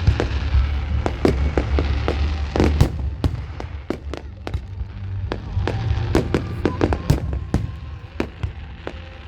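Fireworks display: a dense barrage of sharp bangs and crackling pops, thinning out midway and again near the end, with music playing underneath.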